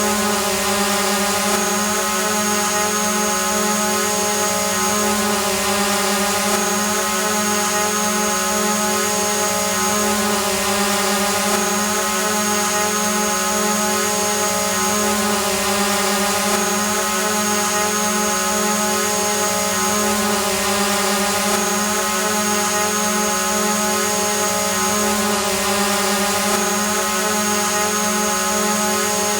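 Multirotor drone hovering: a steady, even whine from its motors and propellers. A thin high whistle above it drops out briefly about every five seconds.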